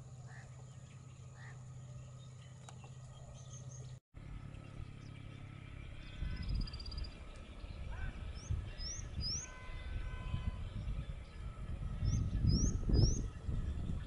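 Small birds giving a brief falling trill and then two quick series of three short rising chirps, the second near the end, over wind rumbling on the microphone that grows louder toward the end. Before a cut about four seconds in there is only a steady low hum.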